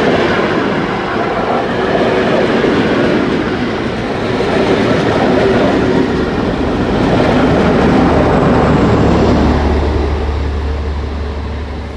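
A steam-hauled special train with class 23 locomotive 023 058-1 rolling past, its wheels and coaches running loudly and fading away near the end. A low steady rumble joins about two-thirds of the way in.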